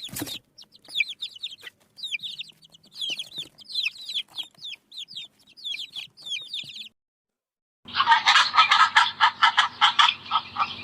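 Chicks peeping: many short, high, falling chirps in quick succession. After a brief silence, about eight seconds in, a loud, rapid pulsing call starts over a low steady hum: a frog croaking.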